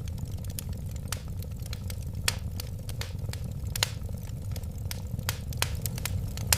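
Wood fire burning with a steady low rumble of flames and irregular sharp crackles and pops, several of them louder, about two seconds in, near four seconds and about a second before the end.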